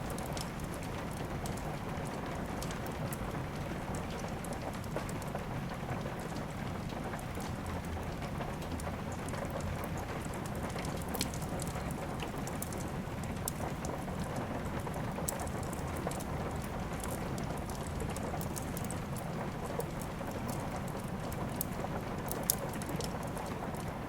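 Steady rain falling, mixed with the scattered sharp pops and crackles of a wood fire burning in a fireplace.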